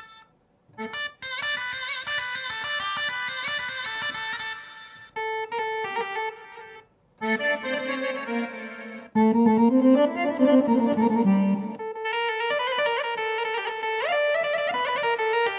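Korg Pa600 arranger keyboard playing a series of short melodic phrases in changing instrument voices, with brief silent gaps between them.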